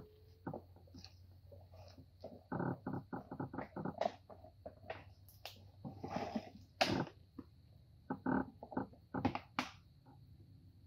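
Irregular crackling clicks and knocks, in quick runs about two and a half seconds in and again near the end, with a brief rustle just past the middle.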